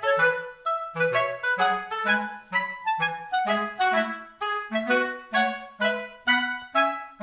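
Background music: a light, bouncy tune of short, evenly paced notes with a clarinet-like woodwind lead over a plucky bass line.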